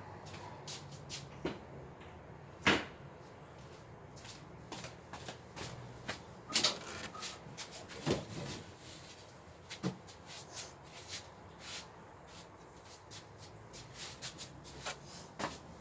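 Irregular knocks, clicks and rattles of baby-crib parts being handled and set together, with a sharp knock about three seconds in and a few more around the middle.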